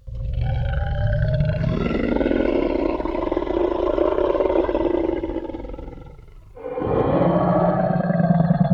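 Tyrannosaurus rex roar sound effect: a long, low, rough roar lasting about six seconds, fading out, then a second roar starting near the end.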